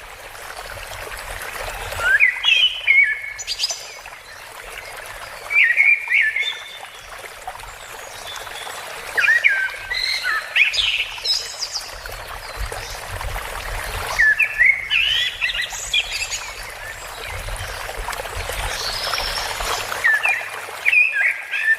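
A songbird singing short chirping phrases every few seconds, each a quick run of rising and falling notes, over a steady background hiss.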